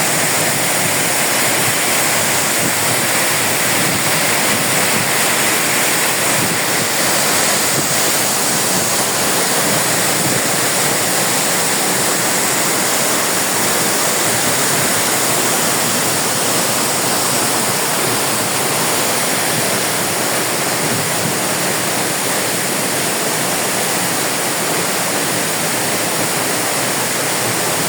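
Waterfall pouring into a deep pool, a steady loud rush of falling water.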